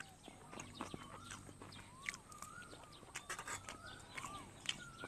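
Faint bird calls, short rising-and-falling chirps heard a handful of times, over soft scattered clicks of someone chewing food.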